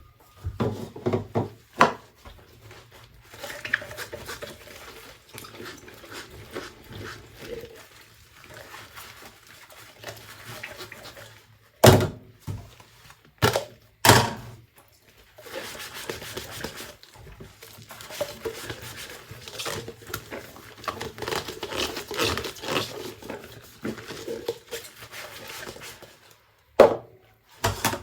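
Dishes being washed by hand: scrubbing and rubbing, with several sharp knocks of dishes being handled or set down. The loudest knocks come in a cluster a little under halfway through and once near the end.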